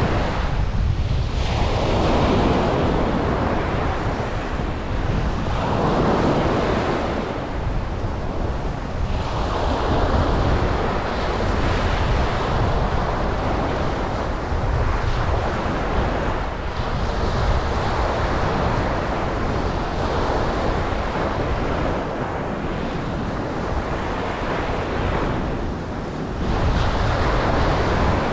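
Ocean waves breaking and washing up a beach, the surf swelling and easing every few seconds, with wind rumbling on the microphone.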